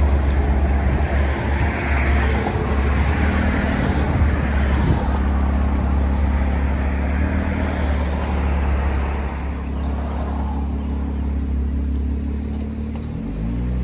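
Chevy Camaro 3.6L V6 with an aftermarket exhaust, running with a strong low drone under load. The sound eases about ten seconds in, and near the end the pitch briefly rises and falls again.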